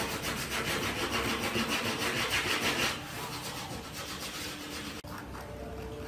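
Rapid, even back-and-forth scraping strokes of a hand tool or abrasive on wood, like sanding or rasping. The strokes are loudest for the first three seconds and then continue more softly.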